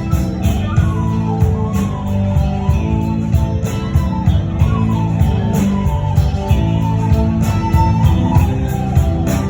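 Celtic folk-rock band playing live in an instrumental break between verses. A steady beat strikes about twice a second under a melody line.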